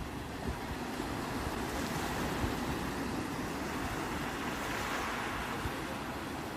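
Sea waves washing steadily on the shore, with wind rumbling on the microphone; the wash swells a little about five seconds in.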